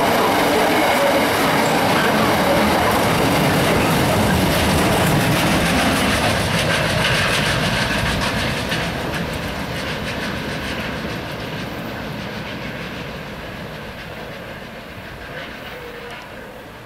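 Loaded container wagons of a freight train rolling past at speed, a steady rumble with rhythmic wheel clicks over the rail joints. About halfway through the last wagon passes, and the sound fades steadily as the train draws away.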